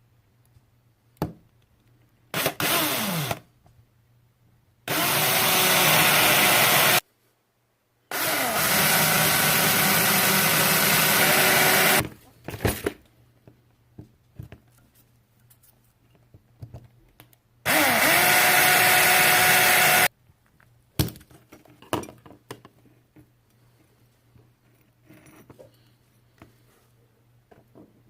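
Small electric drill run in four bursts of one to four seconds, with a steady motor whine, drilling out the rivets to open a diecast toy car. Small clicks of handling come between the bursts.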